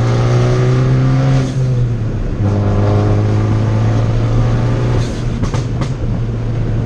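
Tuned 2013 Fiat 500 Abarth turbo four-cylinder running under load, easing off for a moment about two seconds in and then pulling again. Around five seconds in comes a quick run of sharp exhaust pops from its pops-and-bangs tune.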